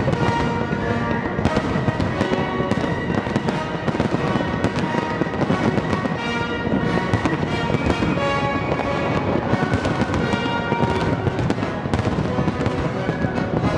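Aerial fireworks display: a dense, continuous barrage of bangs and bursts, with music playing over it.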